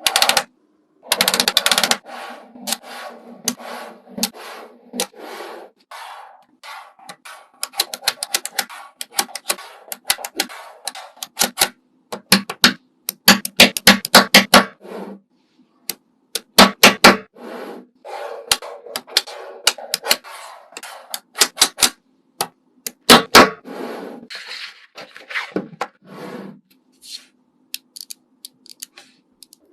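Fast, irregular runs of sharp clicks and taps, mixed with stretches of scraping and rubbing, as small objects and craft materials are handled.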